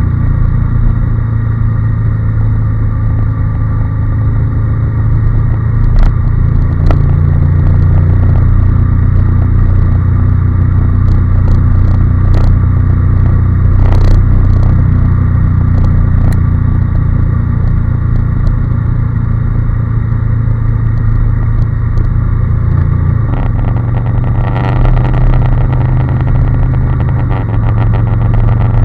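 Honda NC750S motorcycle's parallel-twin engine running steadily under way, its note changing about three quarters of the way through and again shortly after, with a few brief knocks.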